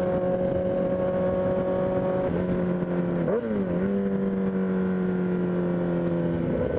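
Kawasaki ZX-10 inline-four sportbike engine running at a steady, fairly high speed under way, its pitch dipping and climbing back about three seconds in, then sagging slowly and dropping near the end.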